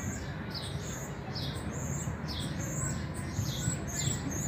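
A small bird chirping over and over, about two short, high, falling chirps a second, over a low steady rumble.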